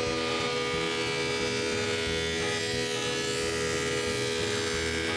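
Woodworking power tool running with a steady whine, cutting or surfacing wood.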